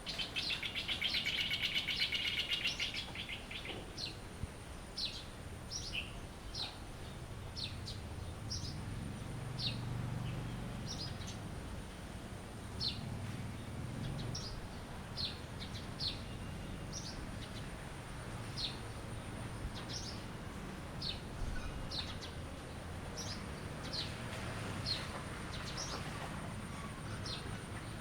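Songbirds chirping: a dense buzzy trill for the first few seconds, then short, high, down-sweeping chirps about once a second.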